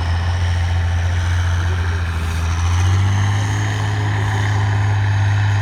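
Trial truck's heavy diesel engine running steadily under load, its pitch rising a little about halfway through as the revs pick up.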